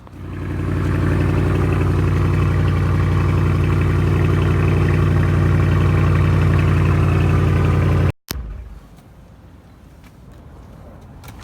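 A motor vehicle engine running steadily at a constant pitch. It builds up over the first second and cuts off abruptly about eight seconds in.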